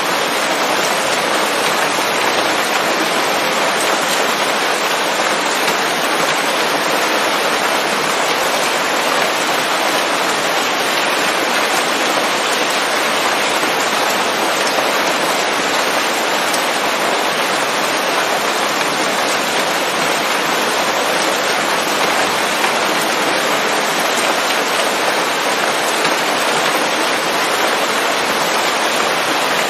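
Steady rain falling on leaves: a dense, even hiss with no let-up and no thunder.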